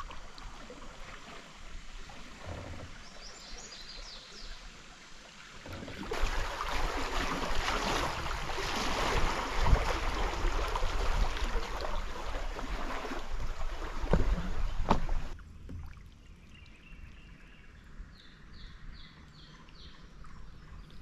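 Creek water rushing around a small paddle boat drifting downstream, much louder for about ten seconds in the middle, with a few sharp knocks against the boat.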